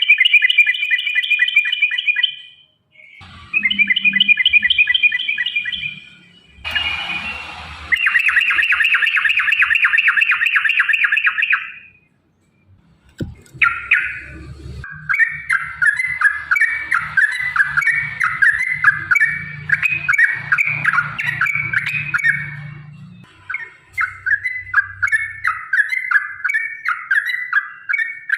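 Yellow-vented bulbul (trucukan) singing its long rolling song: fast bubbling runs of repeated notes in phrases of a few seconds, separated by short pauses, with longer stepping phrases in the second half. A brief hiss sounds about seven seconds in and a single click midway.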